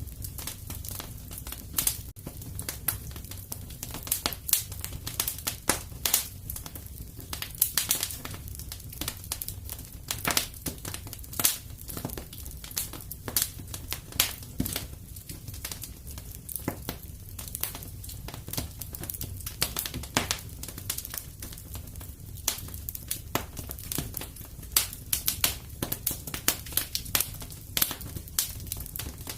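Fireplace fire crackling, with irregular sharp snaps several times a second over a low steady rumble.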